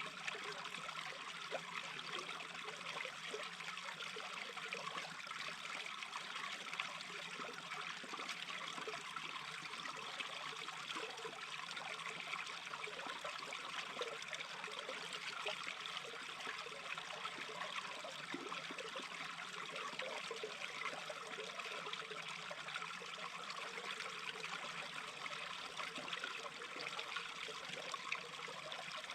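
Small stream babbling steadily, water trickling and burbling over stones.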